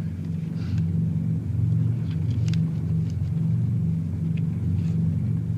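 Steady low drone of an airliner's engines as heard inside the cabin, a film soundtrack effect.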